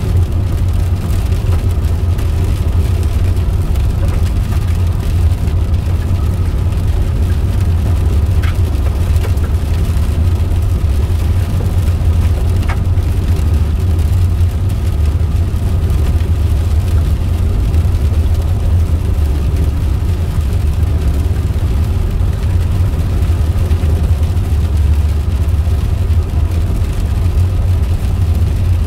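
Steady low rumble of a car's engine and road noise heard from inside the cabin while driving at an even speed.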